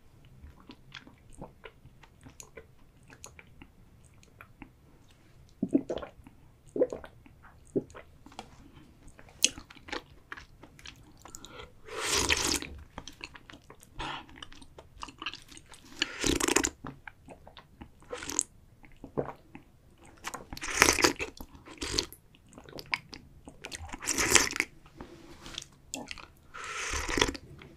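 Close-miked chewing of chewy tapioca pearls, with many small, soft sticky clicks, broken by about five loud slurps of milk tea in the second half.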